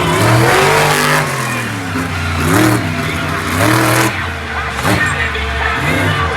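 Monster truck engine revving hard, its pitch swinging up and down again and again as the throttle is blipped and released.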